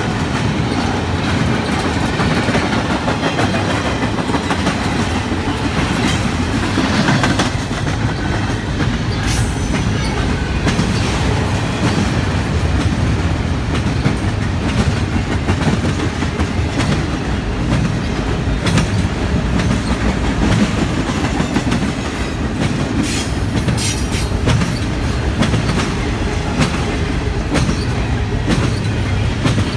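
Double-stack intermodal well cars rolling past, their steel wheels rumbling and clacking on the rails in a loud, steady din. A few brief, sharp metallic screeches cut through about a third of the way in and again about three quarters of the way through.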